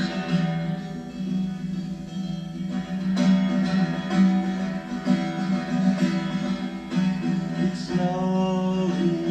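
Acoustic guitar playing an instrumental passage of a song live, with a held note near the end.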